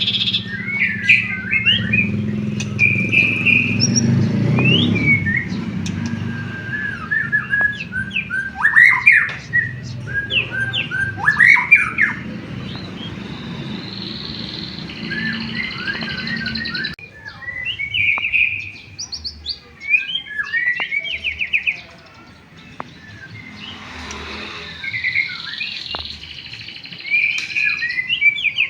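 White-rumped shama (murai batu) singing a varied, loud song of whistles, fast trills and chattering phrases, with canary-learned phrases in its repertoire. A low background rumble runs under the song and cuts off suddenly about two-thirds of the way through.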